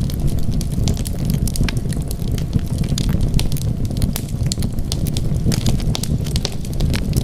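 Wood fire crackling: many quick sharp pops and snaps over a steady low rumble of burning.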